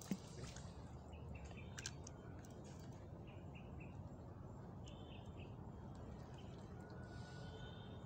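Faint bird chirps, short and high, repeating every second or so over a steady low background noise. A single sharp click just after the start is the loudest sound.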